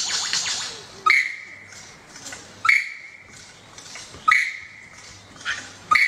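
A bird calling four times at a steady pace, about every second and a half. Each call starts sharply and holds a steady high whistled note, following a brief harsh rasping sound at the start.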